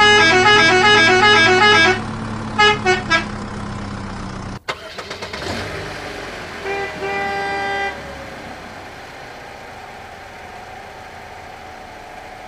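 Vehicle horn sound effects: a fast melodic musical horn tune over a steady engine drone, then three short honks. After a sudden cut, a horn sounds twice, a short toot then a longer blast.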